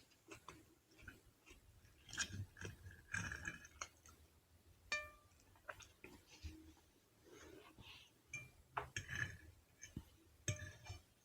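A person eating close to the microphone: soft chewing and wet mouth noises, with a few clinks of a utensil against a dish, one about five seconds in and another near the end.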